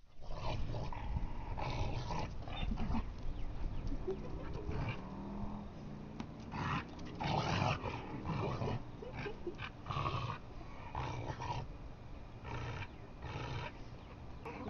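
Dog growling and snarling in repeated rough bursts, an aggressive display.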